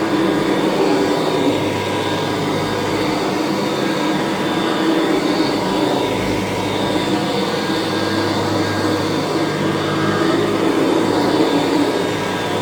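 Kirby Classic III upright vacuum cleaner running steadily while vacuuming: a continuous motor hum with several held tones over a rushing of air.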